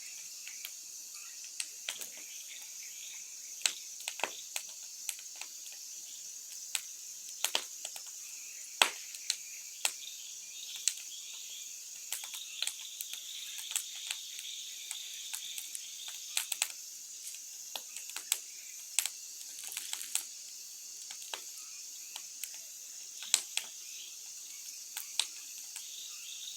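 Wood bonfire crackling, with irregular sharp pops and snaps, over a steady high chirring of insects.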